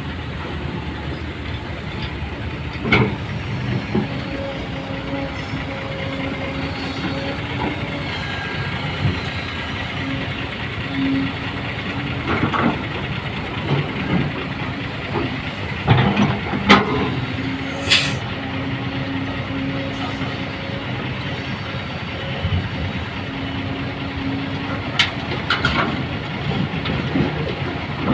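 Heavy machinery running steadily with a low drone, broken now and then by sharp metallic knocks.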